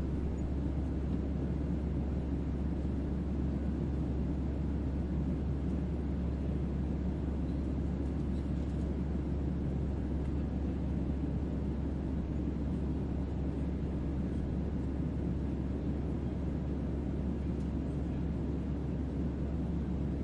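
Steady deep-bass rumble under a soft hiss, an unchanging spaceship-cabin hum made as sleep-sound white noise.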